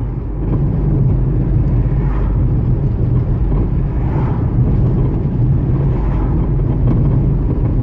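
Steady low rumble of road and running noise inside the cabin of a 2010 Ford Focus being driven. Under it are the clunks of worn suspension components, typical of a car over 100,000 miles.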